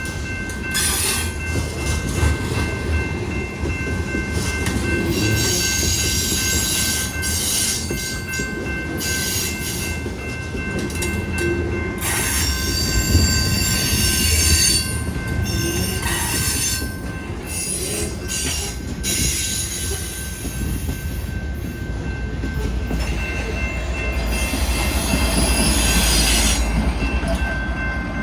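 A train rolling past, with a steady high-pitched squeal from its wheels on the rail under a continuous low rumble. Irregular rattling and clanking of the cars comes and goes over it.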